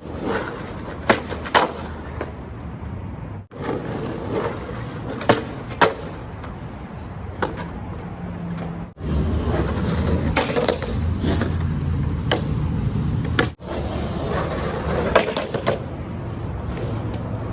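Skateboard wheels rolling over pavement, with a handful of sharp wooden clacks from the board popping and landing. The sound is made of several short takes that cut off abruptly.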